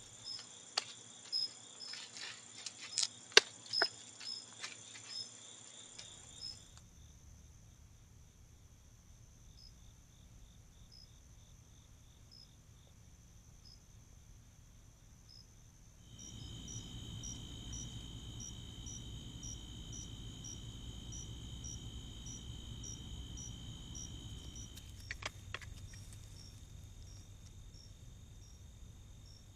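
Crickets and other insects trilling steadily in several overlapping high tones, one of them pulsing about twice a second. Sharp clicks and taps come in a cluster over the first several seconds and briefly again near the end, and a steady low rumble sets in about halfway through.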